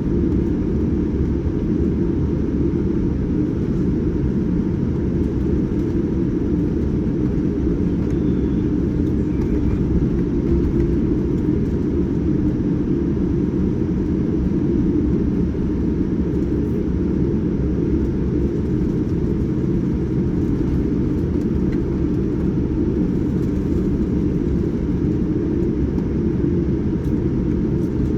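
Steady low rumble of a Boeing 787-9 airliner heard inside the passenger cabin, the even drone of engines and machinery with no change in pitch or level.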